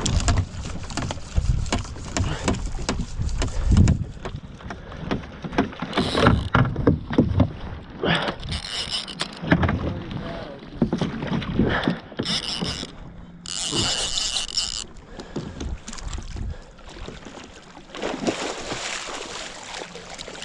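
Irregular knocks, rubs and splashy hiss from a fishing kayak and its gear being handled on the water, with short louder bursts of noise every few seconds.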